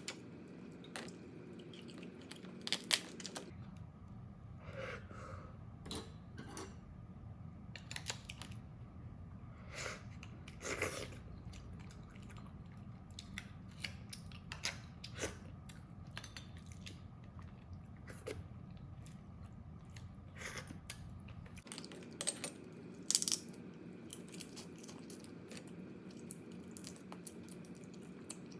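Close-miked eating: crab shells being bitten and cracked, with chewing in between. The crunches and clicks are irregular, the loudest about three seconds in and again near the end.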